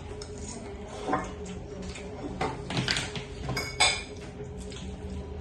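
Utensils clinking and scraping against a bowl during a meal of instant noodles: a few short knocks, the loudest a little under four seconds in, with a brief ring.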